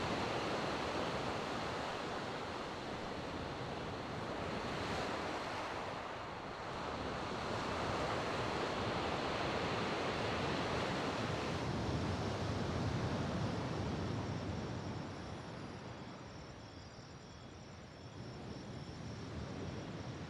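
Sea waves washing onto the shore, the surf swelling and ebbing in slow surges every few seconds. It dies down to its quietest a few seconds before the end.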